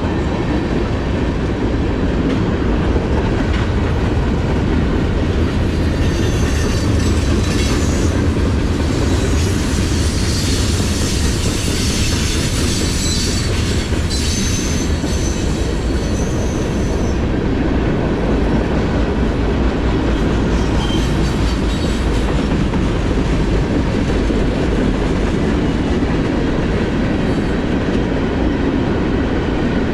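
Norfolk Southern freight cars rolling past with a steady rumble and wheels clacking over the rail. High-pitched wheel squeal rises over it from about six seconds in and fades out near seventeen seconds.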